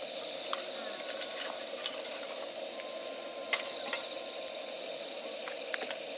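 Wood campfire burning, with scattered sharp crackles and pops over a steady hiss and a constant high-pitched drone.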